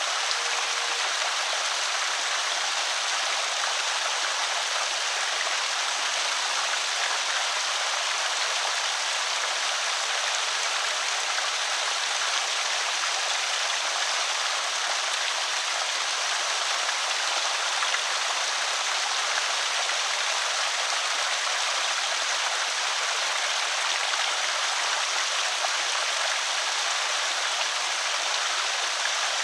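Creek water spilling over a small spillway, a steady, even rushing splash.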